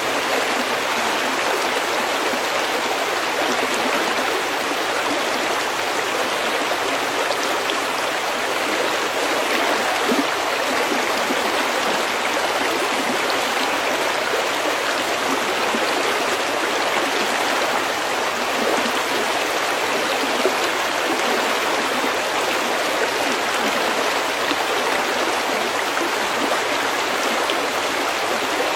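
Snowmelt brook flowing over pebbles, a steady, even rush of water that holds level throughout.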